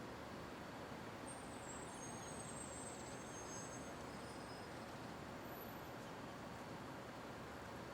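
Steady urban street ambience: a constant hum of city traffic, with a few faint high-pitched squeaks about two to four seconds in.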